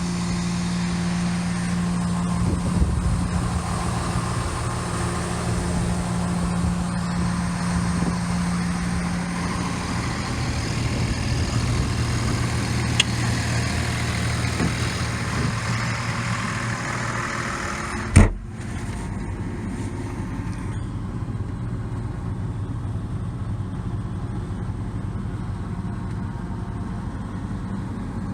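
The FLX 4510 machine's engine running steadily at idle, with its hum dropping to a lower note about ten seconds in. A single sharp knock comes about eighteen seconds in, and after it the sound is duller, with less hiss.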